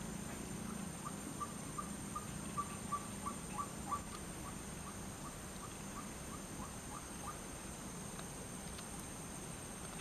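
White-breasted waterhen calling: a rapid run of short, repeated 'kwak' notes, about three or four a second, loudest a few seconds in and dying away about seven seconds in. A steady high-pitched whine runs underneath.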